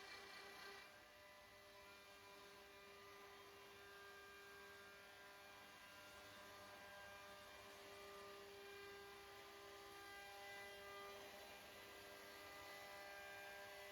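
Faint, steady motor hum from a CNC router carving a wooden newel post: several held tones that shift slightly in pitch as it works.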